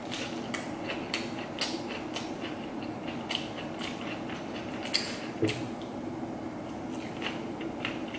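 Close-miked chewing of a Thai lettuce wrap, with irregular crisp crunches of fresh lettuce leaf.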